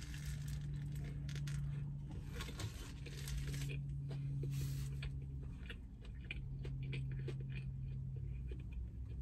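Biting into and chewing a chicken sandwich close to the microphone: irregular crunchy bites and chewing sounds, over a steady low hum.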